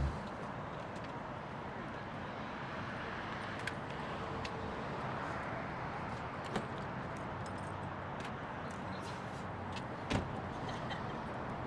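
Steady ambient noise with a few short, sharp clicks, the loudest about ten seconds in.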